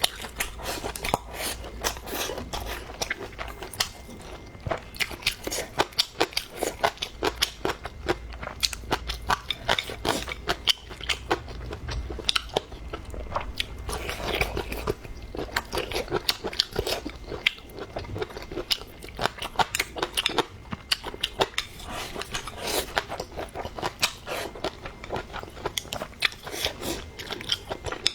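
A person chewing and biting crisp food close to the microphone, with dense crunching clicks throughout.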